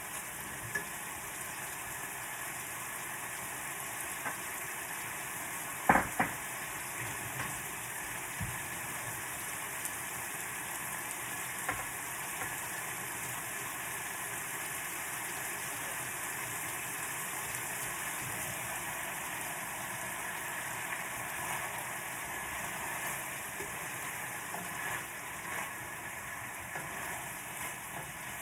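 Food sizzling steadily in a hot pan as a stir-fry cooks, with two sharp knocks about six seconds in and a few lighter clicks.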